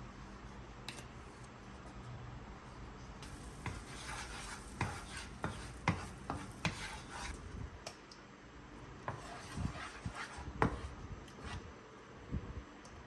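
Kitchen items being handled by hand: a string of light knocks and clicks with rubbing between them, like dishes and utensils being set down and moved about.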